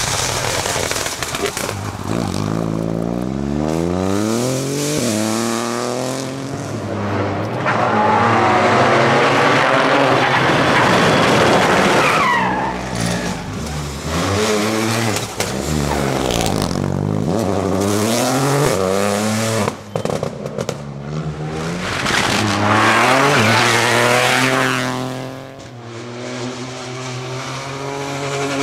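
Lancia Ypsilon Rally4 HF rally car driven hard, its engine revving up and dropping back again and again as it shifts through the gears. Two loud rushes of tyre and road noise come about eight seconds in and again near the end, with a brief tyre squeal around twelve seconds.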